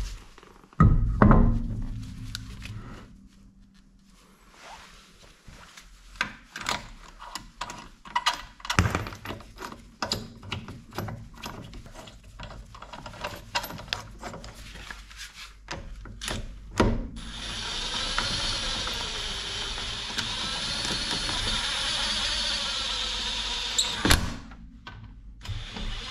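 Hand-tool work in a car workshop: a run of rapid clicks and knocks like a ratchet being worked, then a steady whir for about seven seconds from around seventeen seconds in.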